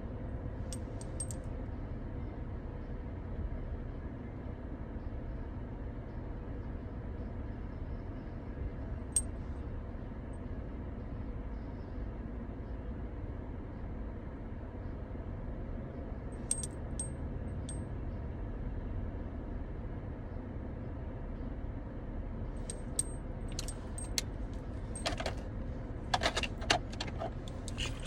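Keys jangling in a few short bursts, coming thicker over the last few seconds, over a steady low rumble.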